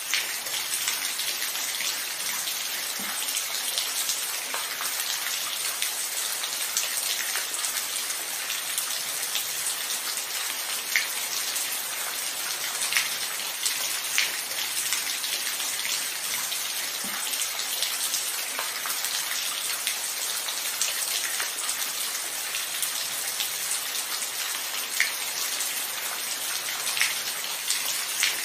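Steady rain falling: a dense, even hiss with individual drops ticking out now and then, and no thunder.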